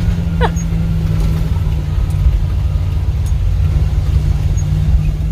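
1970 Chevrolet dump truck driving, heard inside the cab: a loud, steady low drone of engine and road noise. A short squeak comes about half a second in.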